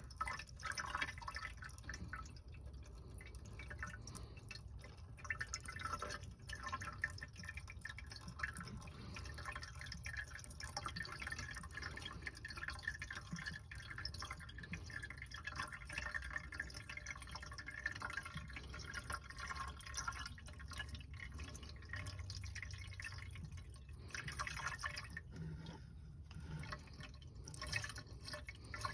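Windshield washer fluid being poured from a jug into a car's washer fluid reservoir: a faint, steady trickle with small drips and splashes as the nearly empty reservoir fills.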